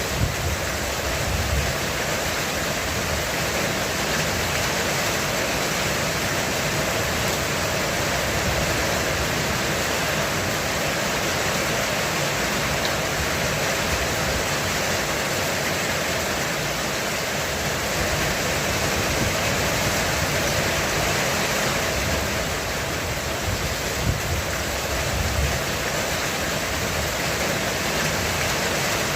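Heavy rain falling steadily on a roof, a dense even hiss, with a low rumble swelling briefly about a second in and again around two-thirds of the way through.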